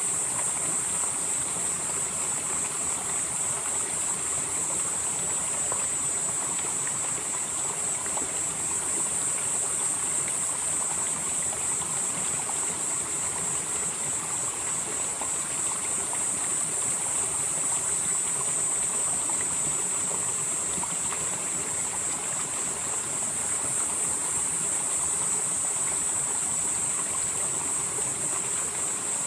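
Mountain valley stream flowing steadily. Over it runs a continuous high-pitched drone that swells and eases about every seven to eight seconds.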